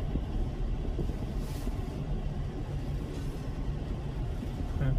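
Steady low rumble of a car's engine running, with a faint low hum that comes and goes.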